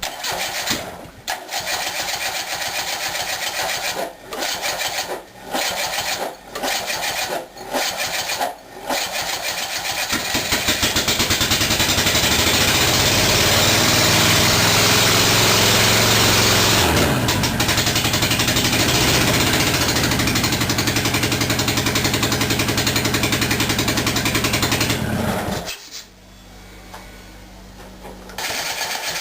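Alfa Romeo Alfasud 1.7 litre flat-four boxer engine on twin Weber IDF40 carburettors, running unsilenced with no exhaust fitted. It first runs in short loud stabs that keep dropping out. From about ten seconds in it runs continuously and is revved up and down, then falls back sharply near the end before picking up loudly again.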